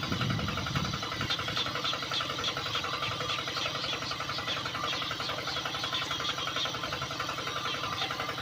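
A small motor running steadily, with a fast, even ticking.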